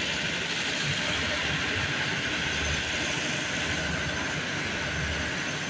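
Passenger train standing at a station platform: a steady hiss over a low, uneven rumble.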